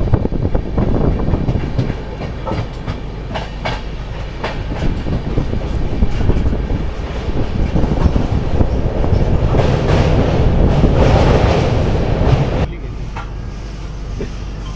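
Indian Railways passenger train running at speed, heard from an open coach doorway: a steady rumble of wheels on rail with repeated clickety-clack clicks as the wheels cross rail joints. The noise swells to its loudest about three quarters of the way in, then drops suddenly to a quieter rumble near the end.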